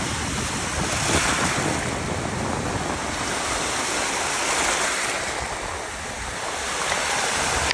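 Lake Huron waves washing onto the shore, swelling and easing with each wave, about three surges, with wind buffeting the microphone.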